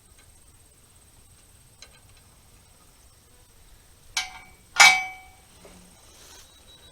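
Two sharp metal clanks about half a second apart, each ringing briefly, the second louder: loose hay rake hardware or a hand tool set down on metal.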